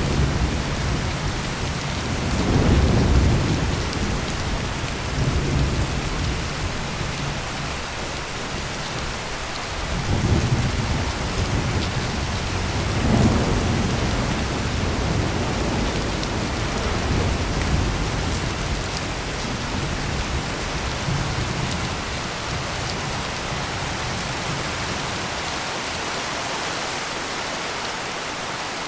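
Heavy rain pouring steadily, with low rolling thunder rumbling up several times and dying away near the end.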